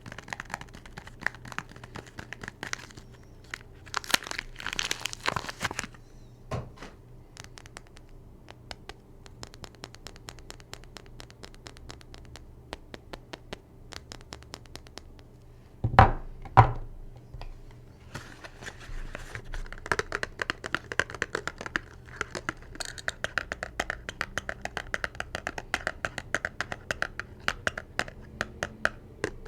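Soap bar packaging being unwrapped and torn open by hand: crinkling, tearing and scratching of wrappers. Two louder knocks come about sixteen seconds in.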